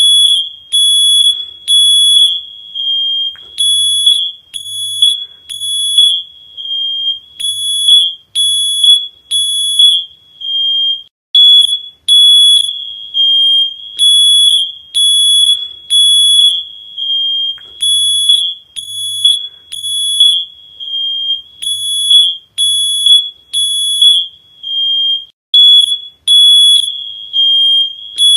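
High-pitched electronic alarm tone, like a smoke alarm, sounding in loud shrill pulses about once a second.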